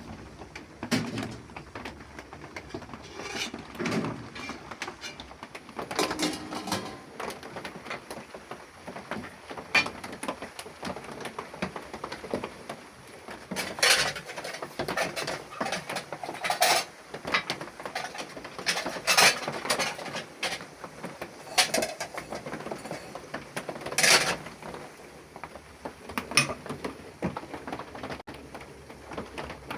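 Irregular clinks and knocks of cooking pots and utensils, a dozen or so sharp strikes spread unevenly, the louder ones ringing briefly.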